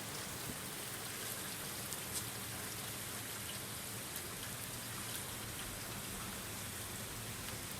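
Steady rain falling, an even hiss, with a few single drops tapping close by.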